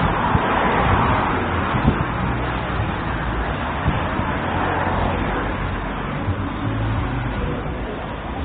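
Road traffic: a steady noise of cars going by, swelling about a second in and again around five seconds.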